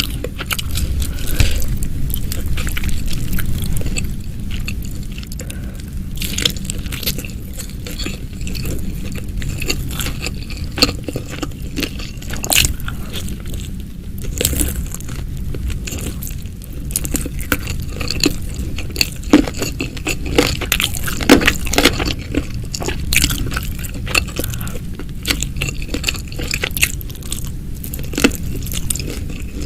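Close-miked eating sounds: a person biting and chewing food, with many short, crisp clicks and crunches.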